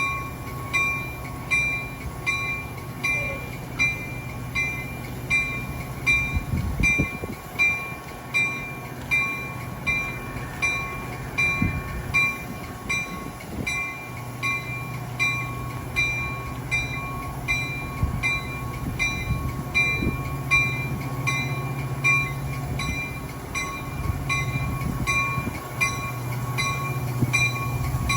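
A locomotive's warning bell ringing steadily, about five strikes every four seconds, over the steady low hum of the train's engine, with a few dull thuds.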